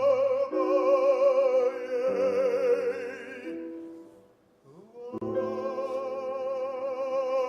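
An opera singer holds long notes with wide vibrato over sustained piano chords, singing a Russian romance. About four seconds in the voice and piano drop away briefly, then a new held note begins.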